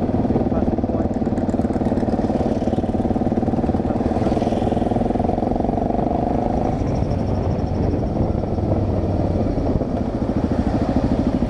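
Motorcycle engine running steadily while the bike is ridden along a road; the engine's pulsing becomes more distinct near the end.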